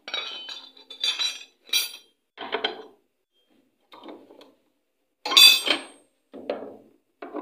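Tools and metal parts clinking and knocking in irregular bursts during hands-on work on a washing machine, with one louder metallic clank a little past halfway.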